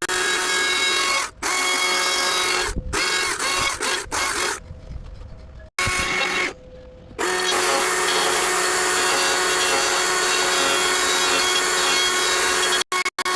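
A power tool running at a steady high speed in several stretches, each starting and stopping abruptly.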